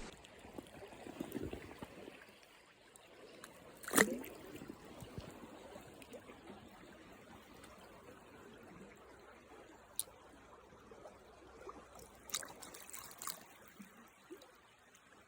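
Water trickling faintly, with one sharp click about four seconds in and a few fainter clicks near the end.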